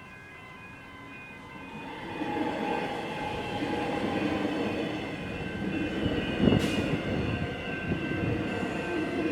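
Level-crossing bell ringing steadily while an X'Trapolis 100 electric suburban train passes over the crossing. The train's rumble swells from about two seconds in, and there is one sharp clank of wheels on the rails about six and a half seconds in.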